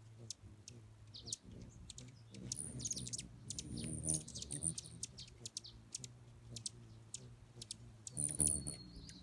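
Small birds calling with many quick, high chips and short chirps, a few brief held high notes among them, over a low rumble.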